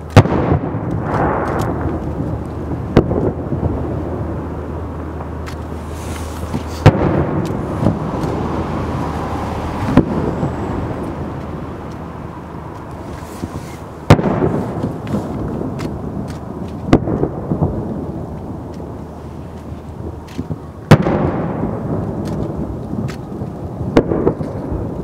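Aerial firework shells bursting, about eight sharp bangs a few seconds apart, each trailing off in a long rolling echo.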